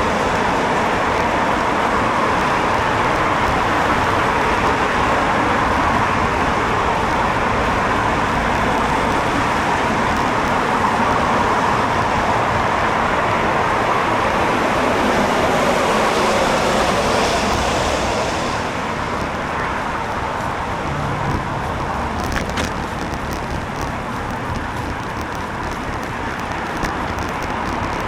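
Steady traffic and road noise heard while cycling along a wet road in the rain. The noise eases a little after about 18 seconds, and a few sharp clicks follow.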